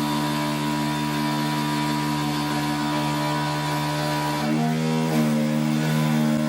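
Roland PNC-2300A CNC engraver running, its motors giving a steady whine of several tones together. About four and a half seconds in the tones step up in pitch as the machine changes its motion.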